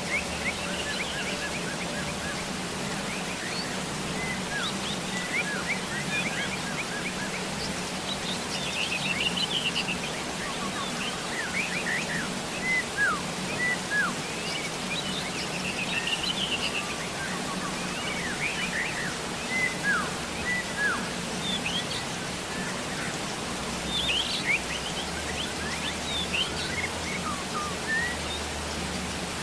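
Steady rain hiss with birds chirping often over it, in short quick calls that come in clusters.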